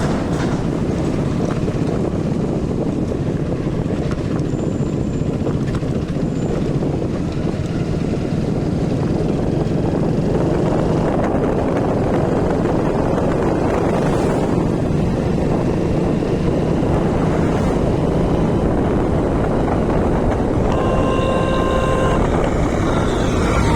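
A road vehicle travelling, with steady engine and road noise and wind on the microphone; near the end a horn sounds once for about a second and a half.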